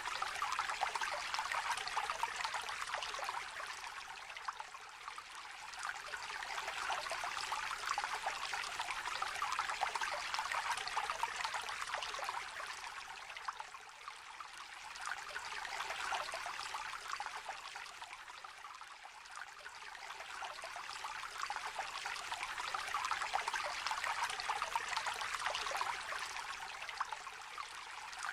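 Small stream trickling and babbling steadily, its rushing swelling and easing every several seconds.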